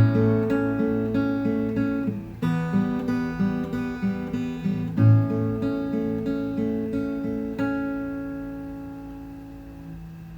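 Acoustic guitar playing a slow instrumental intro: a new chord about every two and a half seconds with picked notes moving inside it, the last chord left to ring and fade away near the end.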